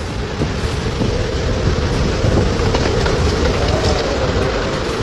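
Strong dust-storm wind rushing and buffeting the microphone, with a wavering hum underneath.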